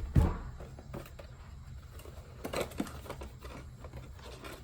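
A single heavy thump about a quarter second in, then light clicks and rustling as parts and packaging are handled on a workbench.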